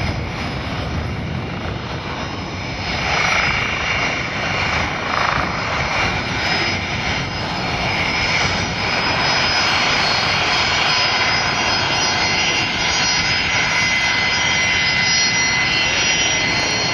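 Airbus A380's four turbofan jet engines running during a low flying-display pass: a steady roar with a thin high whine on top. It grows louder about three seconds in and then holds.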